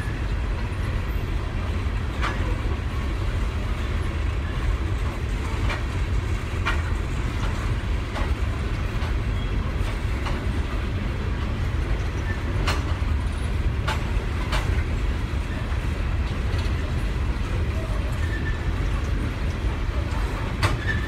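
Long freight train of mostly empty coal hopper cars rolling past: a steady low rumble of wheels on rail, with scattered sharp clanks and clicks from the cars.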